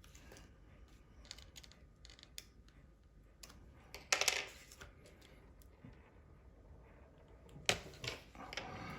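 Small repair tools clicking and tapping on a phone's internals, with two louder metallic clatters, one about four seconds in and one near the end.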